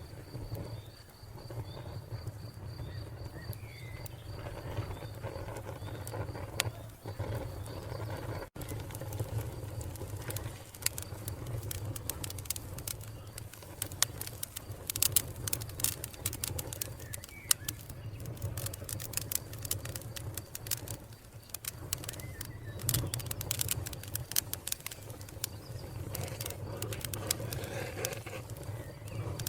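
Wood fire crackling, with many sharp pops and snaps over a low rumble of the flames. A cricket chirps steadily in the background for the first eight seconds or so, and a bird chirps now and then.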